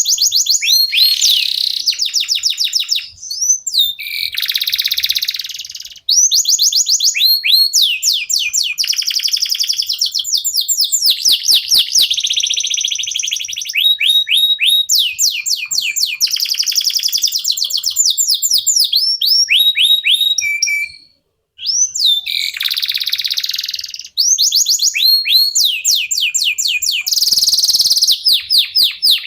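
Domestic (local) canary song: long, fast trills of repeated whistled notes sweeping up and down, phrase after phrase, with one brief pause about 21 seconds in.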